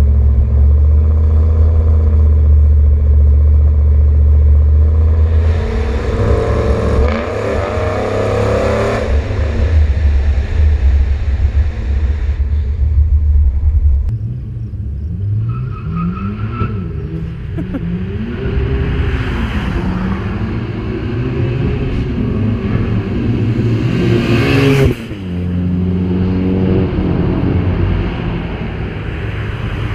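Chevrolet TrailBlazer SS V8 under way: a steady, loud cruising drone for the first half. From about halfway there is a run of revs that rise and fall as it accelerates and lets off. Near the end the sound dips briefly and settles into a steadier engine note.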